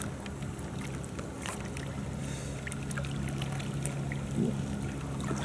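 Steady low engine hum of a boat on the river, with scattered faint clicks.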